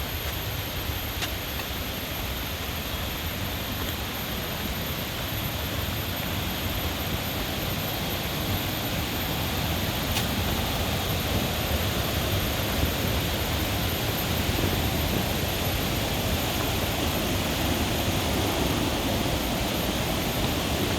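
Steady rush of water from a waterfall, growing a little louder about halfway through.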